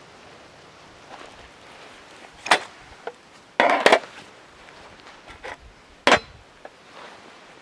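Firewood being chopped or split: a few sharp wooden knocks, with a louder cracking burst a little past the middle.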